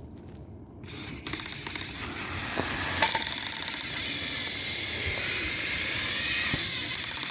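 Battery-powered toy train engines switched on about a second in, their small motors and gears running with a steady whirring buzz as they push against each other.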